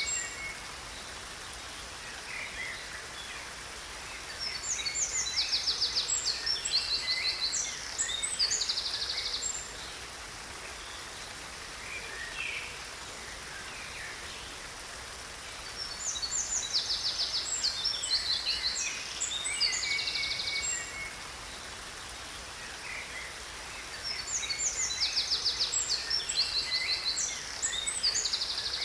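A songbird singing in three bouts of rapid, trilled high phrases, each a few seconds long, over the steady rush of a waterfall.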